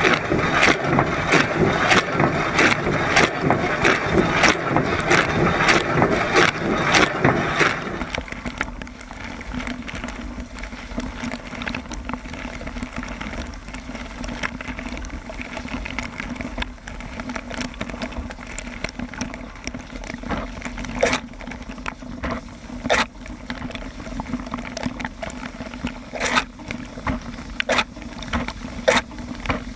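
Water spraying inside a running Siemens dishwasher, heard from inside the wash chamber. The spray drops away about eight seconds in, leaving a steady pump hum with scattered drips and clicks.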